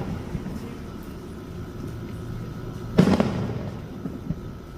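Fireworks going off: one loud shell burst about three seconds in that rumbles away, followed by a couple of smaller pops near the end.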